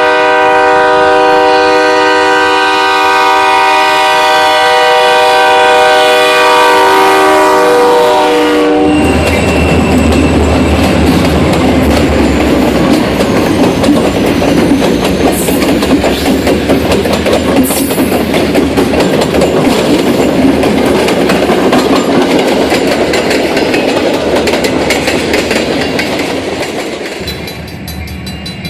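Diesel locomotive air horn sounding one long chord, cutting off about nine seconds in. Then a multi-unit locomotive lashup and its train rolling past with engine rumble and wheels clacking over rail joints, fading near the end.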